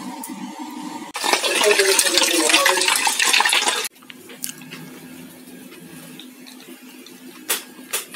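Water running from a tap into a sink. It starts about a second in and cuts off abruptly near the middle.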